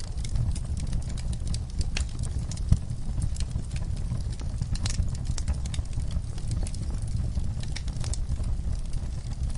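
Wood fire crackling: irregular sharp pops and snaps over a steady low rumble from the burning fire, with one louder pop a little under three seconds in.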